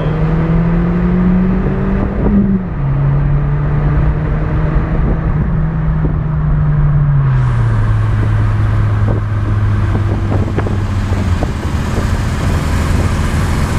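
Car engine pulling under acceleration, its note climbing, then dropping sharply as it shifts up about two seconds in, and falling again to a lower steady drone about halfway through as the car settles into a cruise.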